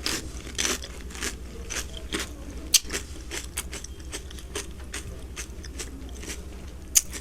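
Close-miked eating: a person chewing and crunching food, with many short wet clicks and crackles and a sharp one about three seconds in and another near the end.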